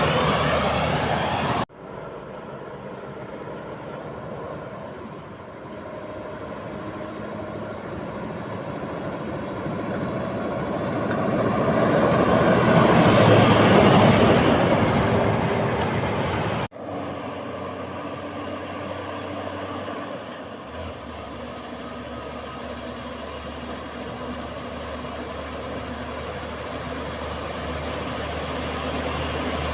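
Heavy trucks going by on a road. One truck's pass-by breaks off suddenly near the start. A second truck's engine and tyre noise builds to a peak about halfway, fades, and breaks off suddenly. After that, a steady engine drone slowly grows louder as another truck approaches.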